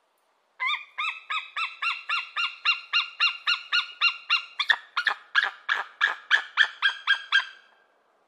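A bird calling a long, steady series of repeated notes, about two to three a second. The notes grow louder and harsher in the second half, then stop near the end.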